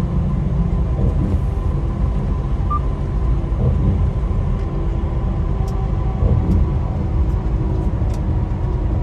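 Steady low rumble of a semi truck's engine and road noise heard inside the cab while cruising on the highway.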